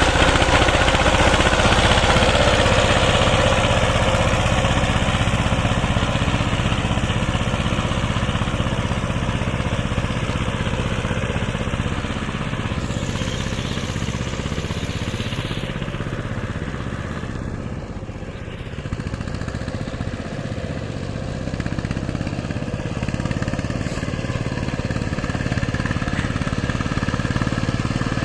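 Engine of a 16 hp Saiping power tiller running steadily; about halfway through its speed and loudness drop for a few seconds, then pick up again.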